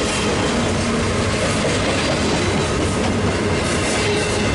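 Freight train of well cars loaded with double-stacked waste containers rolling past close by: the steady noise of steel wheels running over the rails.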